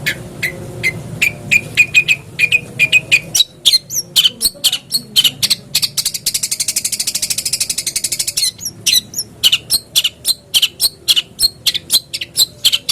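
Long-tailed shrike (cendet) song: a string of short, sharp, high notes at about two to three a second, breaking into a fast buzzy rattle about halfway through, then back to sharp notes. It is a lure recording of a shrike in full song, played to set a captive cendet singing.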